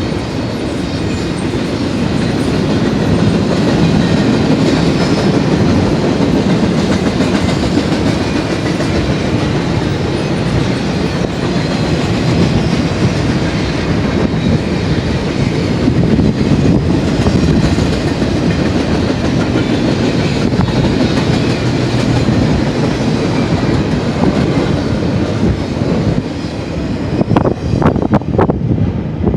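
BNSF double-stack container train rolling past close by: a steady rumble of steel wheels on rail with clickety-clack over the rail joints, and a few sharper clacks near the end.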